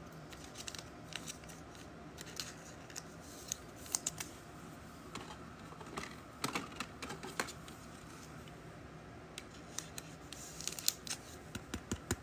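Trading cards and their plastic sleeves or holders being handled on a table: scattered light clicks and taps, with short rustles of cards sliding, a busier patch in the middle and again near the end.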